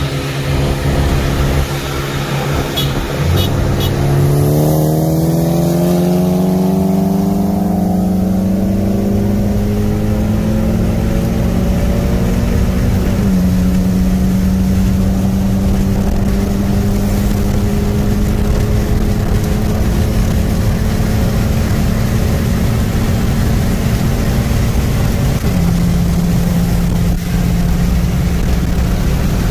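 Mitsubishi Lancer's 4B11T turbocharged four-cylinder heard from inside the cabin, pulling at full throttle in a roll race. Its note climbs steadily for about ten seconds, then drops at a gear change and holds a steady pitch, with a second drop near the end.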